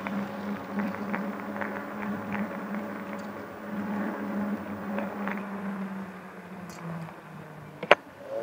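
Ride noise from a handlebar-mounted camera on an electric bike in city traffic: a steady low hum that drops in pitch and fades toward the end, light rattles throughout, and one sharp knock shortly before the end.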